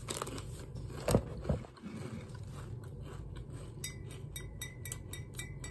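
Chewing a mouthful of nacho cheese Doritos, with two sharp crunches about a second in. A run of faint clicks follows in the last couple of seconds.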